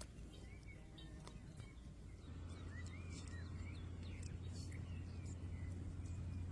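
Small birds chirping in short rising and falling calls, over a steady low rumble that grows louder about two seconds in.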